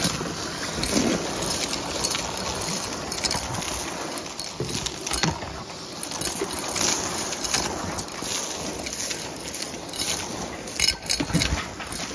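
Numatic Hetty cylinder vacuum running on its hose and metal wand, with debris clicking and rattling irregularly as it is sucked up.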